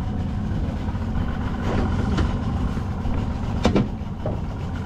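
Engine idling with a steady low rumble, and a sharp knock about three and a half seconds in.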